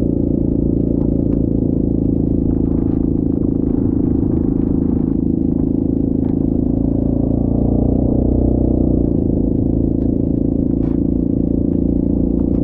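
Yamaha Grizzly 700 ATV's single-cylinder engine running steadily under way, a little louder for a couple of seconds midway, with scattered light clicks and rattles.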